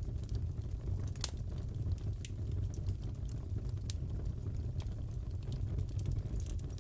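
Crackling fireplace: a steady low rumble of the fire with sharp pops and crackles at irregular intervals, the loudest a little over a second in.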